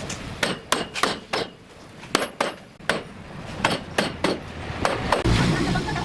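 Hammer blows on wood, sharp strikes in quick groups of about three with short pauses between. A low rumble comes in near the end.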